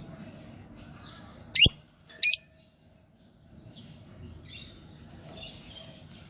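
Pet lovebirds calling: two loud, shrill calls about two-thirds of a second apart, over soft, continuous twittering.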